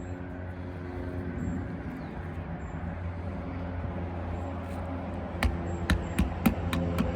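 A steady low hum, then, starting about five seconds in, a quick series of sharp knocks, roughly two or three a second: roofing nails being driven to fasten a replacement asphalt shingle.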